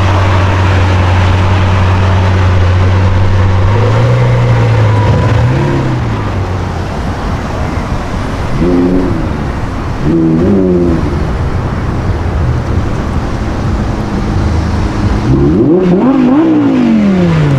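Sports car engine running with a steady low drone, then revved: two short throttle blips whose pitch jumps up and drops back, and a bigger rev near the end that climbs and falls away.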